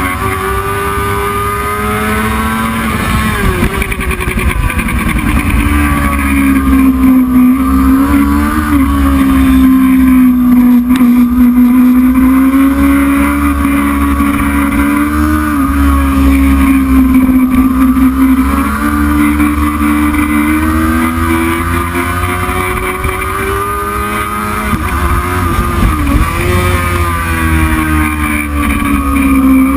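Heavyweight racing motorcycle engine running hard and loud, its pitch climbing and falling with the throttle and gear changes. There is a sharp dip and recovery about 3 seconds in and again near the end.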